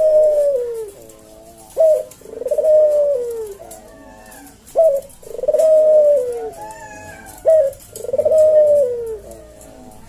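Puter dove (Barbary dove) cooing its slow 'kuk deruk' song: a short clipped note followed by a long coo that falls in pitch, repeated about every three seconds.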